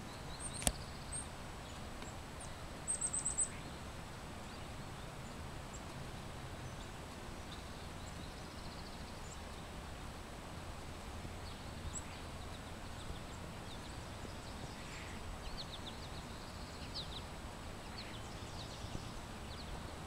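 Outdoor ambience: a steady background hiss with small birds calling in the distance, including a quick high trill about three seconds in and scattered faint chirps near the end. A single sharp click just under a second in.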